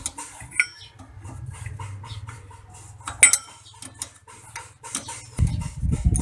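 Metal hand tools and parts clinking and tapping irregularly during work on a differential's pinion seal, over a low hum, with a louder low rumbling starting near the end.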